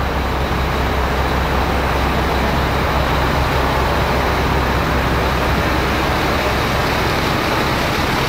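Fire truck's diesel engine running steadily, with road noise, heard from inside the cab while under way.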